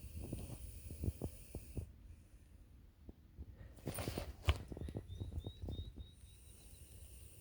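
Hognose snake giving a single sharp defensive hiss about four seconds in, over scattered low thumps and rustling.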